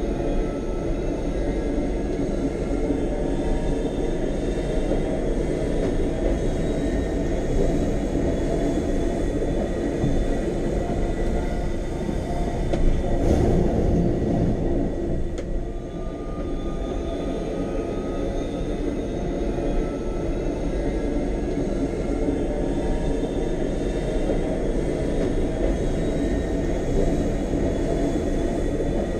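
Electric train of the Wengernalpbahn rack railway running: a steady rumble with faint whining tones over it, swelling louder for a couple of seconds about halfway through.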